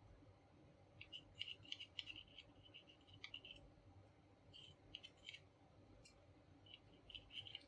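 Faint clicks and light scratching of small plastic parts being handled and pressed together, as the laminator's little gear motor and its greased cog are reassembled by hand. The clicks come in short clusters, with quiet gaps between them.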